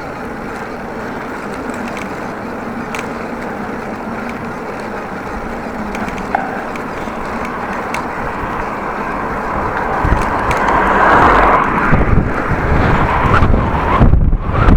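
Bicycle tyres rolling on the road with headwind buffeting the microphone, the wind gusts growing stronger over the last few seconds.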